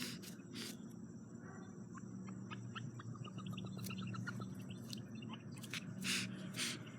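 Green-winged teal hen and her newly hatched ducklings on the nest: a quick run of faint, soft peeps about three seconds in, and short hisses near the start and again about six seconds in, the hen reacting to people at the nest.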